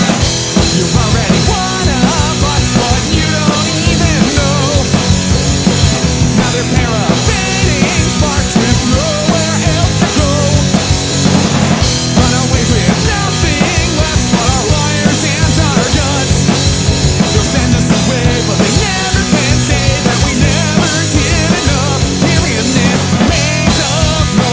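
Punk rock band playing loudly, a drum kit keeping a steady driving beat under the rest of the band.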